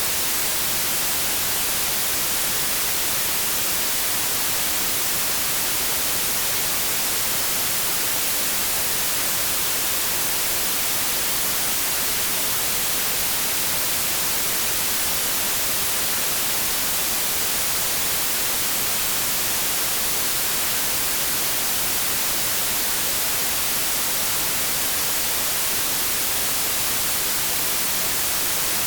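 Steady, unbroken white noise: an even, loud hiss, strongest in the high treble, with no changes or breaks.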